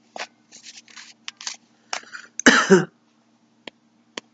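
Soft rustling and light ticks of a skein of yarn being handled, then a short throat clear about two and a half seconds in, and two faint clicks near the end.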